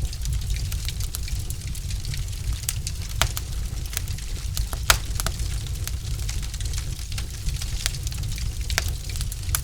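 Wood fire burning in a fireplace: a steady low rumble with irregular sharp crackles and pops from the burning logs, one louder pop about halfway through.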